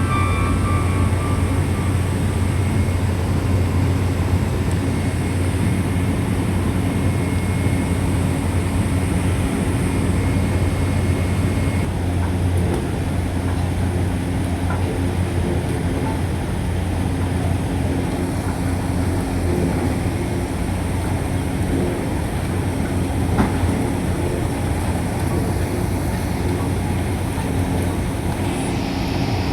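Heavy machinery running steadily with a strong low hum and a constant rumble, a few faint clicks over it.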